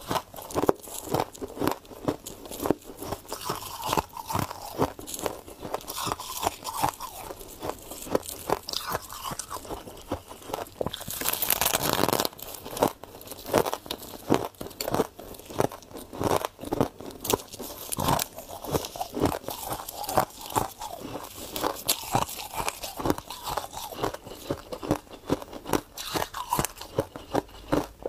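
Close-miked biting and chewing of ice, with a run of irregular crunches. About eleven seconds in comes a louder, harsher stretch lasting about a second.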